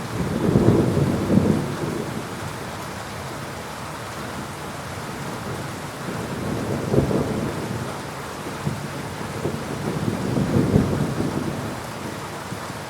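Thunderstorm: steady rain falling, with low rumbles of thunder swelling up three times, about a second in, around the middle and again near the end.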